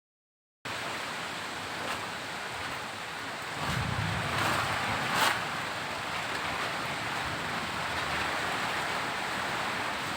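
Heavy rain falling as a steady hiss, swelling louder with a low rumble about four seconds in and a brief sharp peak about five seconds in.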